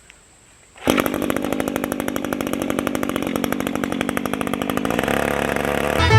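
Two-stroke chainsaw running steadily, coming in suddenly about a second in. Banjo and fiddle music enters right at the end.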